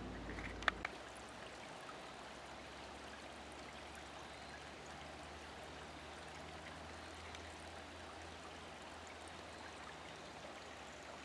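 Faint, steady rushing of a mountain stream, with two or three sharp clicks under a second in.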